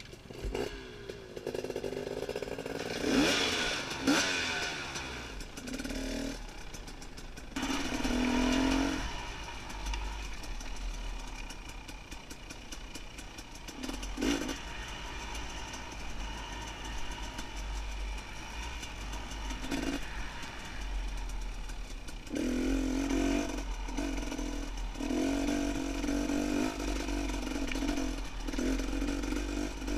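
Dirt bike engine revving up as the bike pulls away, then rising and falling with the throttle over rough trail, with a stretch of repeated harder revving near the end.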